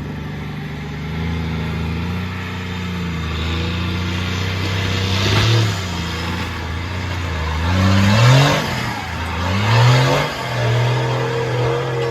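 4.2 litre turbo diesel straight-six of a Nissan GQ Patrol running steadily, then revved hard three times, about five, eight and ten seconds in, each rising sweep in pitch coming with a loud rush of noise.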